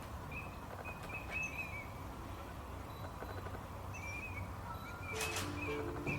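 Small bird calling outdoors: short chirps repeated every second or so, with a louder harsh call about five seconds in. Soft music notes begin near the end.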